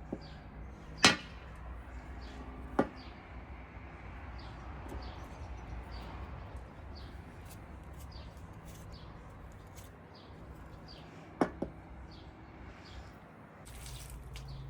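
A few sharp knocks over a steady low hum: the loudest about a second in, another near three seconds, and two close together near the end, with faint high ticks in between.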